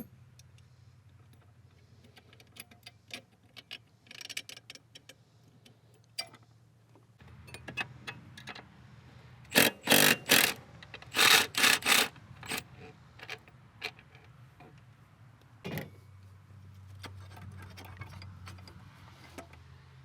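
Ratchet wrench clicking in short runs as the pitch stopper's 14 mm bolt and nut are undone, with a cluster of louder, faster runs about ten to twelve seconds in and scattered metallic clinks of tools and parts.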